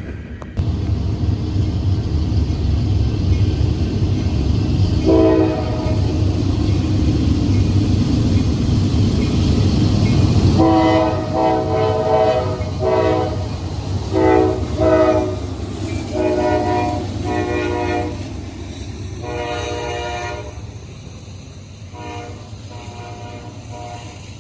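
A Norfolk Southern train's diesel locomotives rumbling past while the horn sounds a chord in a series of repeated blasts, some long and some short. The rumble fades in the last several seconds as the train moves away, with the later blasts fainter.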